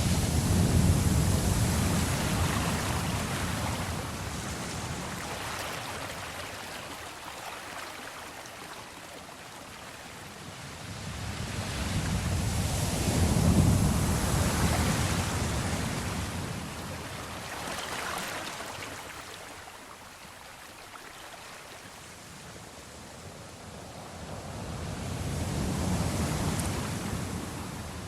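Sea waves surging and receding in a continuous rush, swelling three times about twelve seconds apart.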